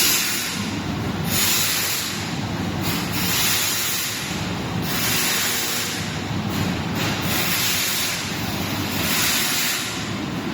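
Several YC-10S industrial dehumidifiers running together, a steady machine noise with a hiss that swells and fades every second or two.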